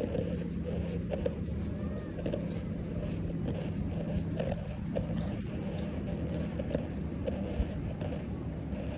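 A steady low motor hum, with scattered light clicks and knocks over it.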